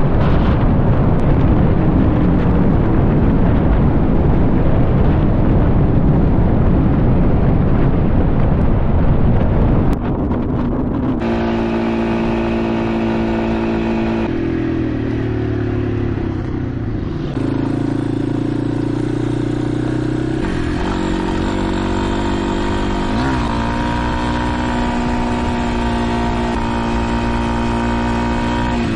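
Heavy wind rush on the microphone for about the first ten seconds. Then a motorcycle engine running under way, its pitch shifting up and down in steps, with one quick rev about two-thirds of the way through.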